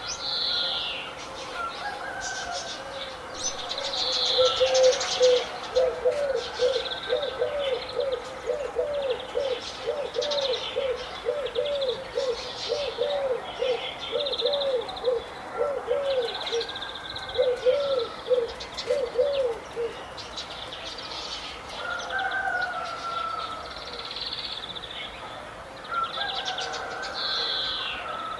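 Several birds calling together: high chirps and whistles throughout, with a lower call repeated quickly, about two notes a second, for some fifteen seconds through the middle.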